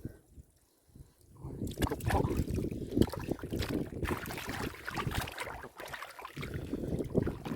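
Water and mud sloshing and splashing in irregular bursts, as from hands working in shallow muddy water. It starts about a second in, after a brief near-quiet moment.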